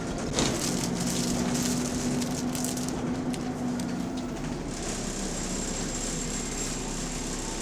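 Bus engine running with an exhaust leak, heard from on board: a steady engine tone that holds for about four seconds and then drops back, over a rattly, crackling background, with a sharp knock about half a second in.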